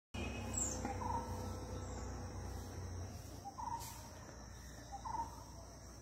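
A bird gives a short call three times, each a small pip followed by a brief note, over a steady high insect drone.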